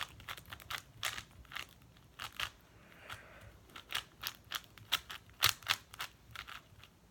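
A 4x4 speed cube being turned fast during a solve: a quick, irregular run of sharp plastic clicks and clacks as the layers snap round.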